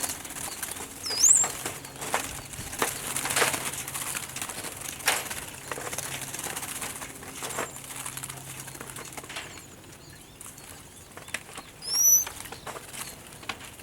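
Trapped birds flapping their wings in repeated flurries as they are caught by hand inside a bird trap. Two short rising chirps come about a second in and again near the end.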